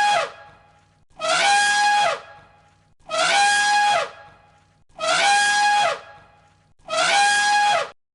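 Elephant trumpeting, the same recorded call looped about every two seconds. Each call lasts about a second, holds one steady pitch and drops at the end. The last call cuts off near the end.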